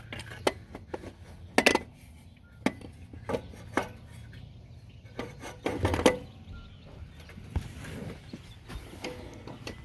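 Hand tools and metal parts clinking and knocking irregularly while a car's starter motor is being unbolted and worked loose from underneath, the loudest clanks about six seconds in.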